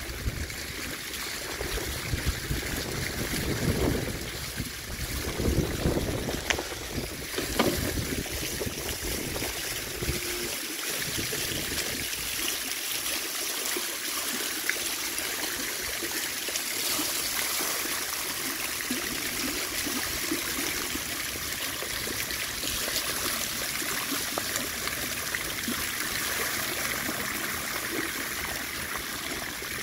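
Steady rush of water falling over a spillway into the canal. For roughly the first ten seconds, irregular low rumbling from wind buffeting the microphone runs under it.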